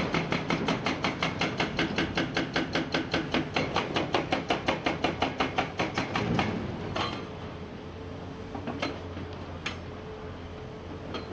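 Hydraulic breaker hammer on a Komatsu PC490 excavator pounding rock in a fast, even run of blows, about five a second, that stops about six and a half seconds in. The excavator's diesel engine then runs on steadily, with a few single knocks.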